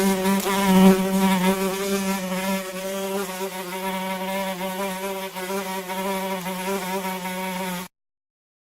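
Housefly buzzing in a steady, slightly wavering drone with a low hum and many overtones, cutting off suddenly near the end.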